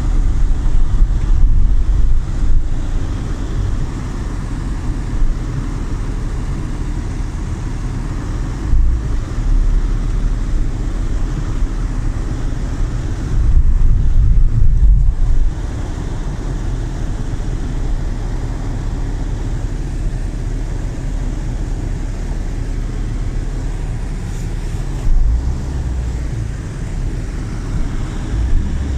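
Low, continuous rumbling noise with several louder surges lasting a second or two.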